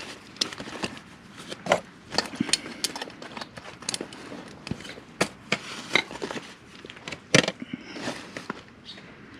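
Hand tools clicking and knocking against metal in an irregular run of sharp taps, with one louder knock near the end, as tools are worked on a rounded-off motorcycle oil drain bolt.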